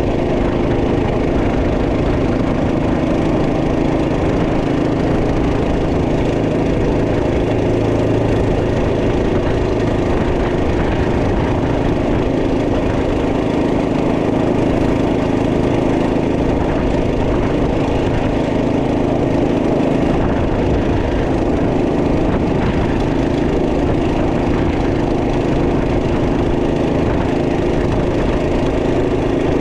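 Minibike's 212cc single-cylinder four-stroke engine running steadily, its pitch holding even with no revving up or down.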